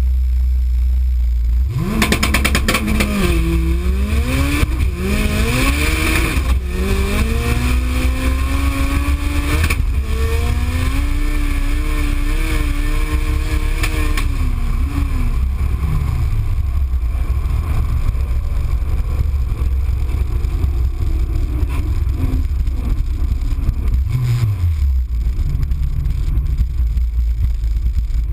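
Turbocharged Honda Civic hatchback's four-cylinder engine, heard from inside the cabin, on a full-throttle quarter-mile drag pass. After a steady low rumble, it launches about two seconds in and revs up through the gears with four upshifts, the pitch dropping at each shift, then climbs slowly in top gear. About fourteen seconds in the throttle is lifted and the engine falls away to a low rumble as the car coasts, with one short blip of revs near the end.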